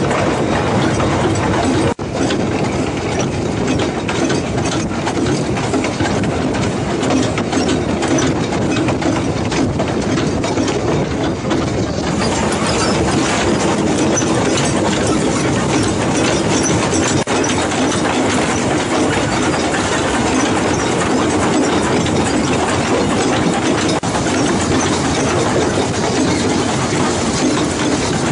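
Two-foot narrow-gauge train behind a small 0-4-0T tank locomotive running along the line: a steady rush of wheel, track and running noise. There is a short break about two seconds in, and the sound changes about twelve seconds in, when it comes from the locomotive's cab.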